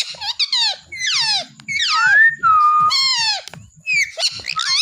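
A parrot giving a rapid series of shrill calls, each sliding down in pitch, with a couple drawn out into a held whistle in the middle.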